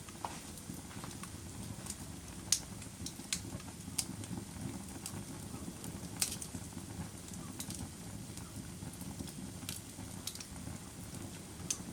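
Wood fire burning in a fireplace: a steady low rumble of flames with scattered sharp crackles and a few louder pops.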